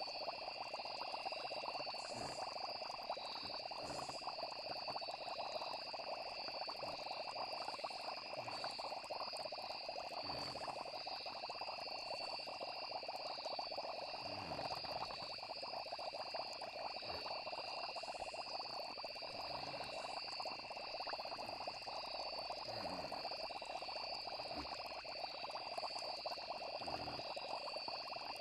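Night chorus of frogs and chirping insects, a steady, continuous blend with the insects pulsing high and the frogs filling the middle. A low plop sounds every few seconds.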